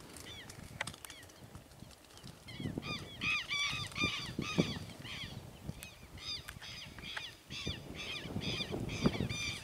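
A bird giving harsh, repeated calls, several a second, starting about three seconds in, over a low rumbling background noise.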